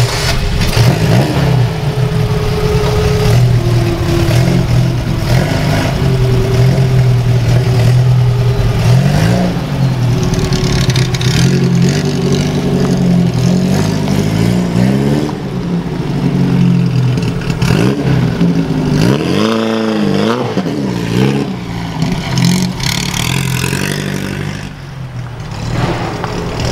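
Engine of a custom 1967 VW Beetle fitted with motorcycle tailpipes, running and driving off, revving up and down several times, most clearly a little past the middle.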